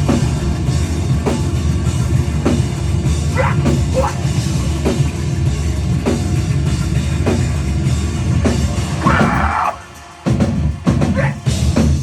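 Live heavy rock band playing, with the drum kit prominent. The music stops for a moment a little before ten seconds in, then comes back.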